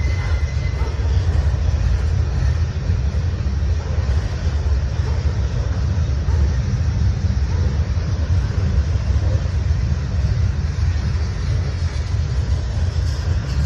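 Freight cars of a long train (boxcars and covered hoppers) rolling past, a steady low rumble of steel wheels on rail.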